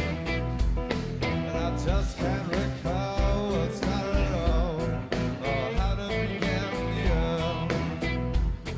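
Rock band playing live, with drums keeping a steady beat under electric guitars and bass. A voice sings a melody line through the middle.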